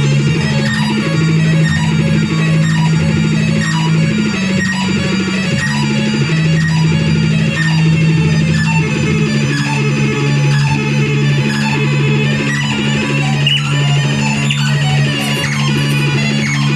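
Noise music from a handmade synthesizer: a loud, steady low drone with fast rhythmic pulsing and shrill high tones layered over it.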